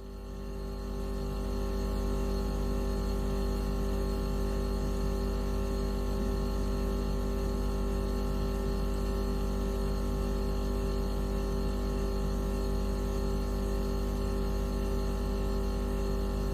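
Synthesized anti-mosquito repellent tone: a steady electronic hum made of many held tones at once, heaviest in a deep hum and a middle note. It fades in over the first couple of seconds after a short break, then holds unchanged.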